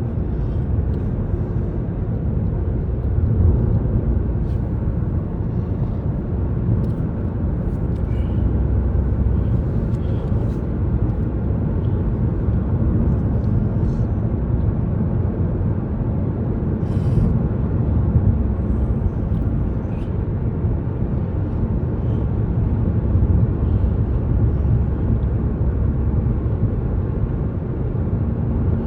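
Steady road and engine noise of a car cruising on a highway, heard from inside the cabin: an even low rumble with a few faint ticks.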